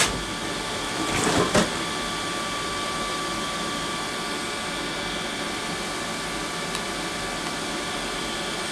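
Steady whir of the Pro'sKit SS-331 desoldering station's vacuum pump running, with a brief clatter about a second and a half in.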